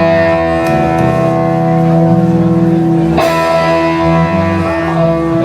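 Live rock band music: guitar chords left ringing, with one new chord struck about three seconds in.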